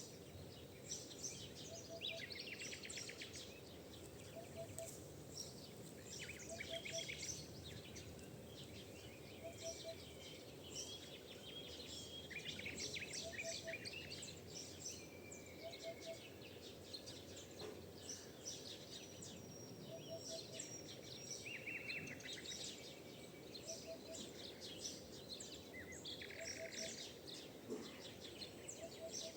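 Morning chorus of many wild songbirds singing over one another, with a low three-note call repeated about every two seconds underneath the song.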